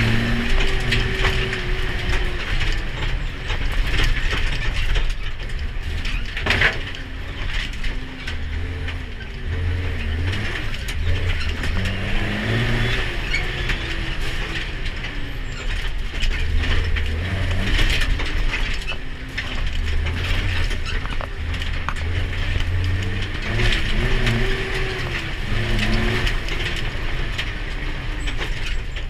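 Ginaf Dakar rally truck's diesel engine running under load, its pitch rising and falling again and again as it revs and drops. A constant rattling and clattering of the truck's body and parts runs alongside.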